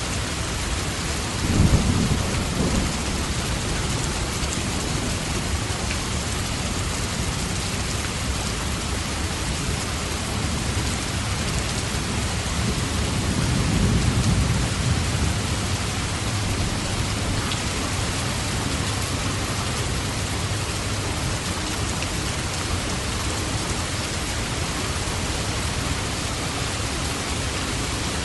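Steady, heavy rain falling, with low thunder rolling twice: once about two seconds in and again around the middle.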